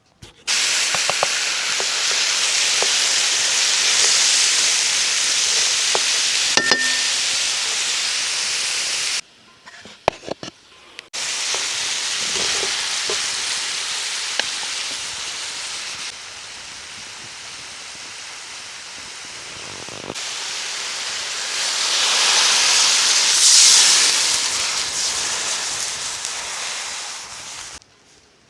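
Food sizzling as it fries in a pot over a wood fire, a steady loud hiss that cuts off abruptly twice, is quieter for a few seconds in the middle and swells near the end, with a few scattered clicks.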